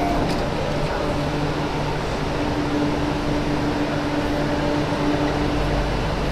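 Steady rumble inside an MTR Q-train carriage, with a constant low hum of the train's machinery under it. A deeper rumble swells in near the end.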